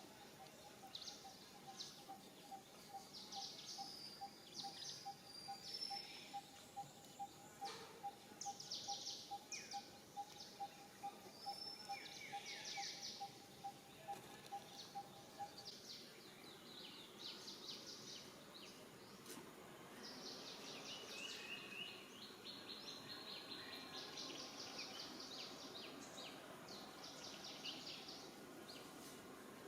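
Faint outdoor bird chorus: many short high chirps and fast trills, with an evenly repeated pip call running through the first half and stopping about halfway.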